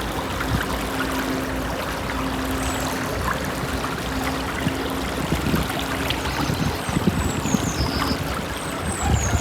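Swollen spring-flood river flowing and gurgling steadily. A few short, high, falling bird chirps come near the end.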